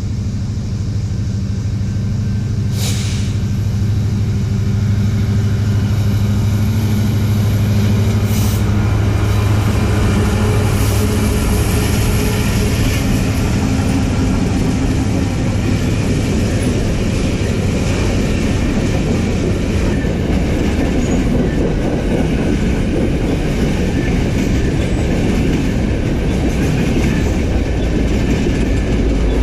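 A train passing close by: a diesel locomotive's steady low engine hum, giving way to the rumble and clatter of railcar wheels on the rails, which grows slightly louder. Two short sharp knocks sound in the first ten seconds.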